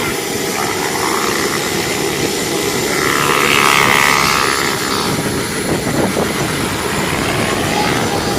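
Goblin 700 electric RC helicopter in flight, its main rotor blades and brushless motor running steadily, swelling louder for a moment about three to four seconds in.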